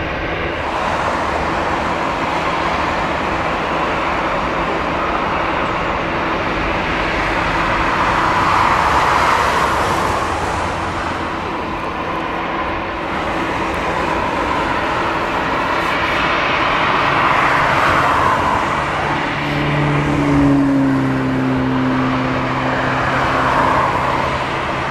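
Steady engine noise with several passing swells, and a low engine tone that drops in pitch about twenty seconds in, as from a vehicle going by.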